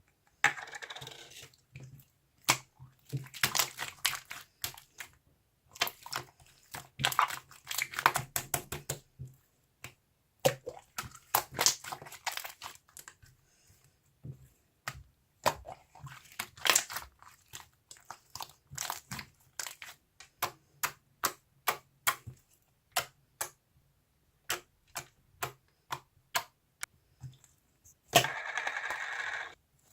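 Runs of rapid clicks and taps with short pauses between them, like typing on a keyboard, over a faint steady hum. A short hiss comes near the end.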